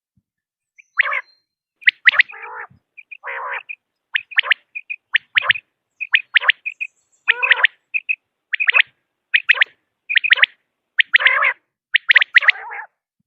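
Common quail calling. After about a second of silence come short, sharp high notes in quick twos and threes, mixed with lower, rougher calls, at roughly one group a second.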